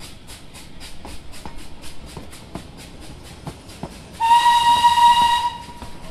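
Train wheels clicking over rail joints about four times a second, then a train horn sounding one steady note for about a second and a half, a little after the middle, louder than everything else.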